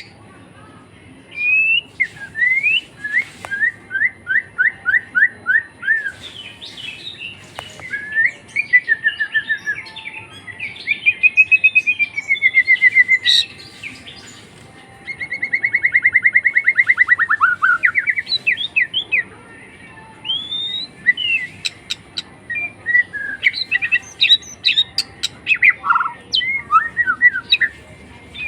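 A pet songbird singing a long, varied song: whistled phrases, quick runs of repeated notes and rippling trills, broken by short pauses.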